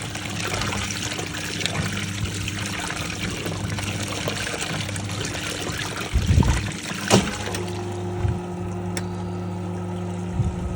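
National NA9450PN pulsator washing machine in its rinse: water trickling and pouring in the tub over a steady low hum. About seven seconds in there are a couple of low thumps and a sharp click, then the water sound stops and the hum carries on.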